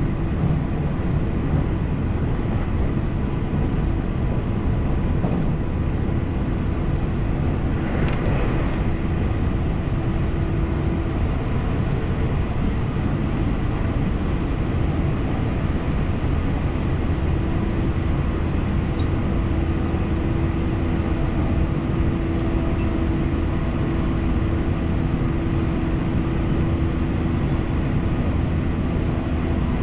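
Running sound inside a JR Central 313 series electric train: a steady rumble of wheels on rail with a faint steady hum, and a short burst of noise about eight seconds in.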